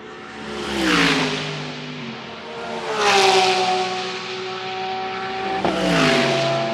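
GT3 race cars passing one after another at speed, three pass-bys about one, three and six seconds in, each engine note dropping in pitch as the car goes by.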